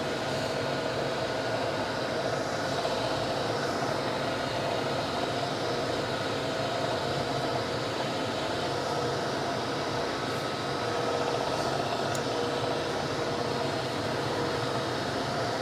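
Gallmeyer & Livingston No. 55 surface grinder running steadily, its spindle and grinding wheel giving an even hum with a few held whining tones.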